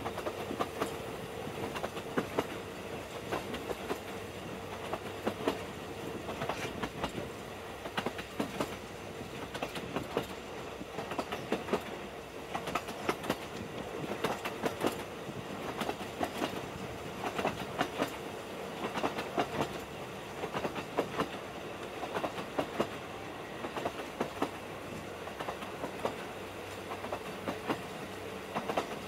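Narrow-gauge railway train running along the line, its wheels clicking and clattering over the rail joints in an uneven stream, over a steady hum.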